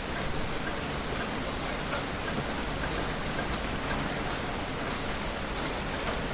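Steady heavy rain falling and pattering on surfaces, with scattered individual drop hits. No thunder stands out.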